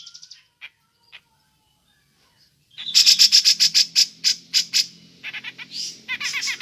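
Grey-cheeked bulbul (cucak jenggot) giving its 'ngepik' call: quick runs of sharp, harsh chirps, about six a second. The first loud run starts about three seconds in, and softer rapid rattling runs follow. A low steady hum sits beneath once the calls begin.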